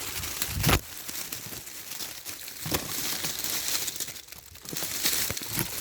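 Hedge branches and leaves rustling and crackling as they are pushed apart by hand, with a few sharper cracks.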